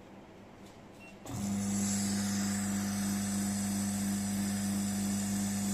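Small electric oil pump of a viscosity tester switching on about a second in and running with a steady hum, drawing petroleum ether cleaning solvent out of the test cell.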